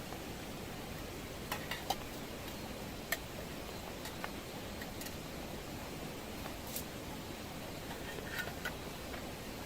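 Steady hiss of rain, with scattered sharp ticks, several of them close together about one and a half to two seconds in, and more near the end.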